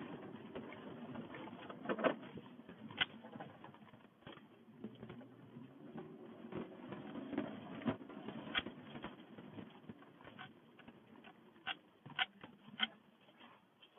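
Pickup truck rolling through snow on chained tires: a low, uneven rumble with irregular sharp clinks and clacks of the tire chains, a dozen or so, bunched near the end.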